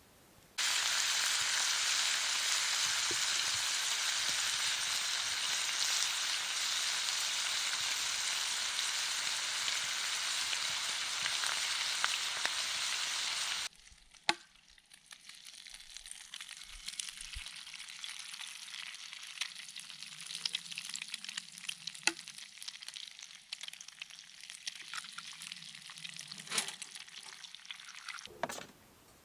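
Food sizzling in a frying pan. A loud, steady sizzle cuts off about halfway through, giving way to a quieter crackling sizzle with scattered pops and clicks.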